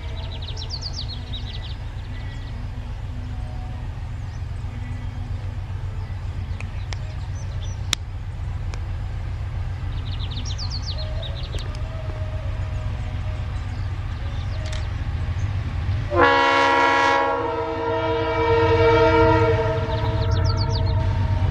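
Diesel freight locomotive running with a steady low rumble. About three-quarters of the way in, its air horn sounds a loud chord of several tones and holds it to the end, swelling once more near the end.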